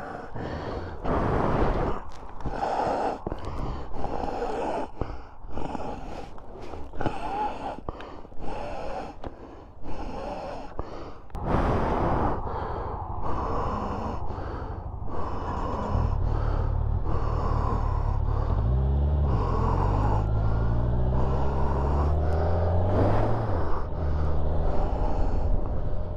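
Irregular rustling and buffeting noise, then about two-thirds of the way in a motorcycle engine starts running steadily and rises in pitch several times as the bike accelerates through the gears.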